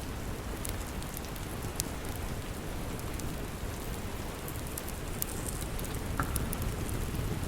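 Steady rain with a low rumble, and a wood fire crackling with sharp pops scattered through it.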